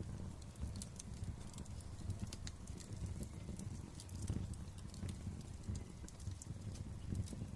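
Wood fire in a fireplace crackling: sharp, irregular pops and snaps over a low, steady rumble of the flames.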